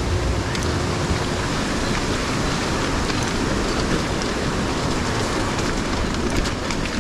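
Stream in flood rushing steadily, running high after heavy rain.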